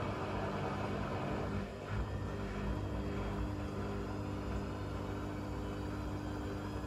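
Blomberg fuzzyDigitronic Granat 3200 washing machine running, its drum motor giving a steady low hum with rumble, dipping briefly about one and a half seconds in.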